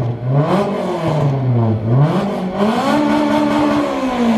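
Honda S2000's four-cylinder engine free-revved in neutral through an aftermarket exhaust: quick repeated rev blips rising and falling, then held high for about a second before dropping back near the end.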